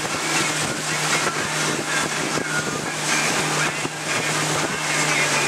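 Stratus 201 Pro XL bass boat's outboard motor running at a steady pitch, under a steady rush of wind and water.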